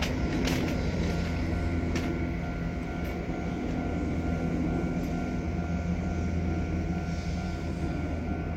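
Commuter train running: a steady low rumble with a faint steady hum, and a few sharp clicks in the first three seconds.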